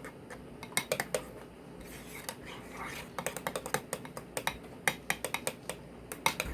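Kitchen utensils and dishes clinking and clattering: an irregular run of sharp clicks and knocks, starting about a second in.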